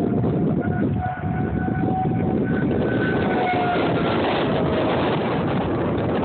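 Wind buffeting the microphone, with a distant outdoor tornado warning siren wailing faintly underneath. The siren's slowly wavering tone fades out about four seconds in.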